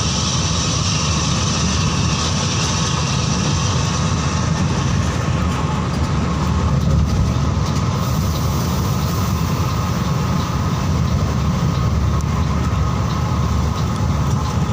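Mercedes-Benz 1626 coach on the move: a steady, loud low rumble of engine and road noise.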